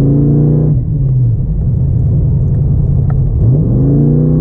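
Car engine revving up hard under throttle, dropping off about a second in, then revving up again near the end, over a steady low rumble.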